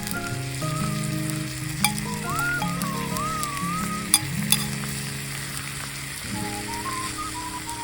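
Food sizzling on a hot steel griddle, with a few sharp clicks, under background music with a gliding lead line.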